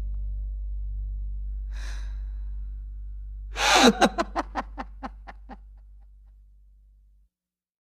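A person takes a short breath, then bursts into laughter: about ten quick pulses that fade away. Under it a low held note from the music slowly fades out.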